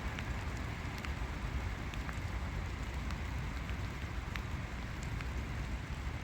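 Steady rain falling, with many scattered sharp drop ticks over an even hiss and a low steady rumble.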